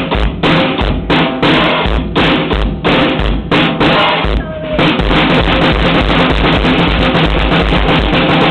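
Drum kit being played hard, with bass drum and snare hits. About four and a half seconds in, the separate hits give way to a fast, dense run of strokes.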